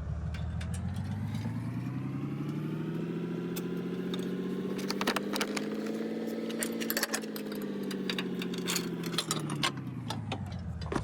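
A vehicle engine whose pitch climbs steadily for about six seconds and then falls away, with scattered metallic clinks over it.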